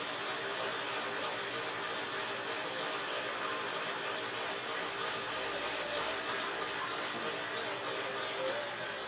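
A machine running steadily, a hum with an even hiss over it.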